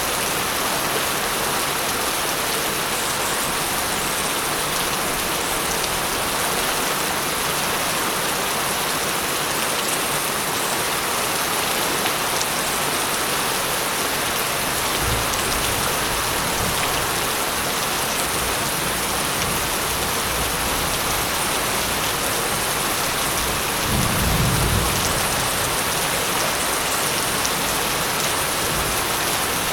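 Steady heavy rain falling, with rolling thunder: a low rumble comes in about halfway through and swells to a louder rumble near the end.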